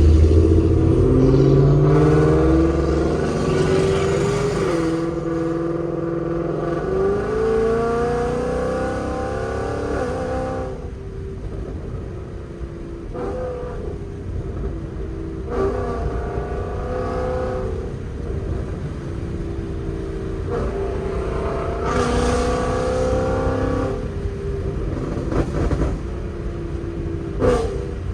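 Straight-piped Ford Mustang GT 5.0 V8 (long-tube headers, catless, Corsa Xtreme cat-back exhaust) accelerating through the gears, heard from inside the car. The pitch rises and drops at each shift, settles to a lower drone, and pulls hard again several times.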